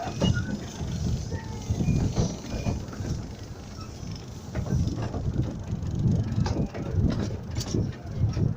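Miniature steam railway train running: an uneven low rumble with frequent irregular knocks and clatter.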